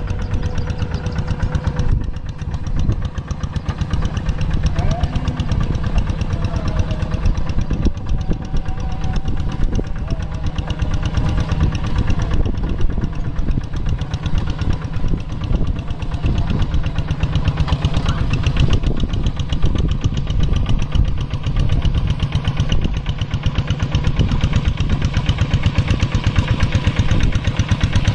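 Kubota walk-behind hand tractor's single-cylinder diesel engine running steadily with a rapid chugging beat while pulling a plough through rice-paddy soil.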